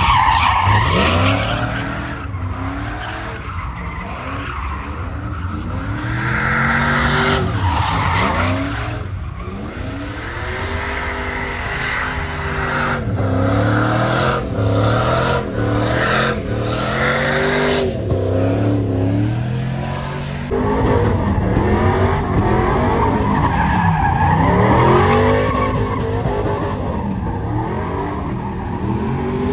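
Vehicle engine revving up and down over and over, with tyres squealing and skidding as in a burnout or donuts.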